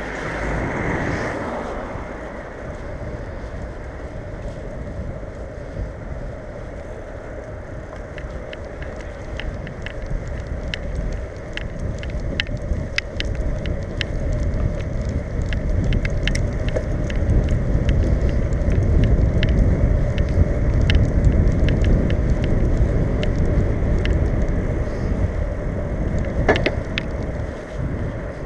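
Wind rumbling on the microphone and road noise from a bicycle being ridden along a city street, getting louder partway through as the ride picks up. Many small sharp clicks are scattered through the second part.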